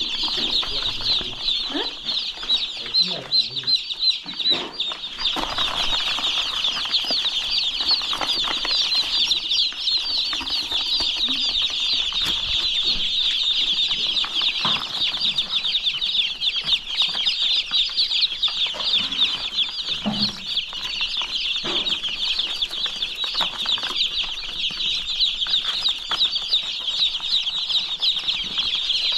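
A flock of young chicks peeping continuously, a dense chorus of overlapping high chirps.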